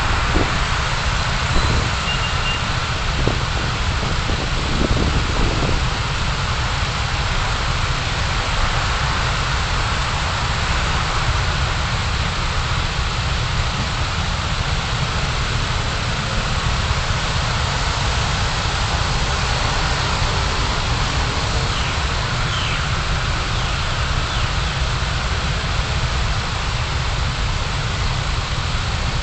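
Steady low rumble and hiss of a car driving, road and engine noise as picked up by a dashcam, with a few light knocks in the first few seconds.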